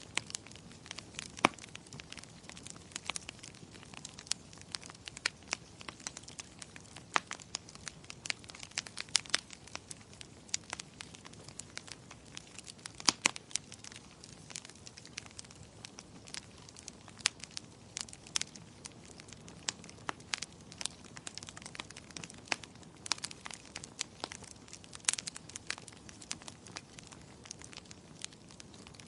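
Wood fire crackling, with irregular sharp pops several times a second, over a soft steady hiss of gentle rain.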